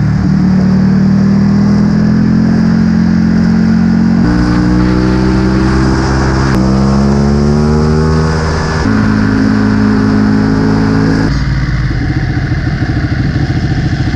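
Ducati Panigale sportbike's twin-cylinder engine and aftermarket exhaust running under way. The engine note changes in steps with gear changes, with one steady climb of a couple of seconds near the middle as the bike accelerates.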